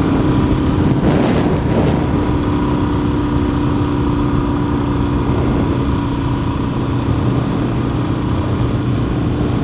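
Dual-sport motorcycle engine running at a steady cruise, with wind noise on the microphone.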